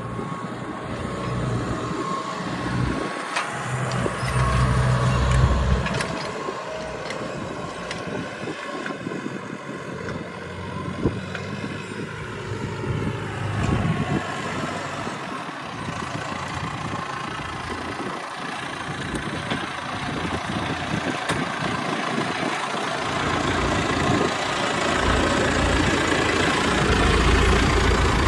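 A vehicle engine running steadily, with irregular low rumbles of wind buffeting the microphone.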